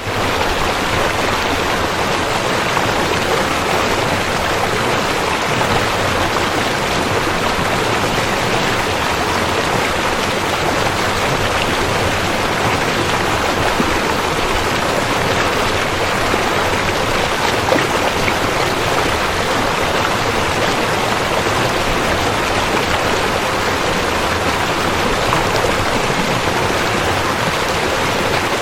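River water flowing, a steady rushing that stays even throughout.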